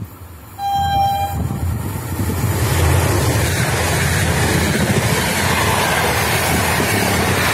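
Intercity passenger train sounds a short horn blast about half a second in, then runs through the station at speed. The noise of its wheels and coaches on the rails builds over the next second or two and holds steady and loud as the carriages pass.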